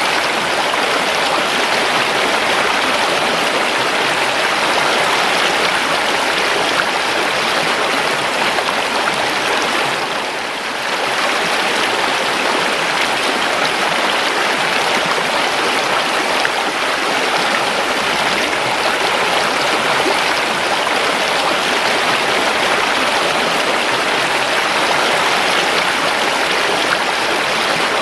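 River water flowing steadily over stones, a continuous rushing and babbling that dips briefly about ten seconds in.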